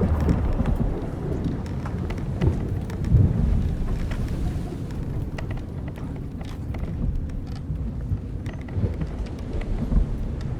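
Old wooden sailing ship's timbers and rigging creaking and clicking at scattered moments over a steady low rumble of wind and sea.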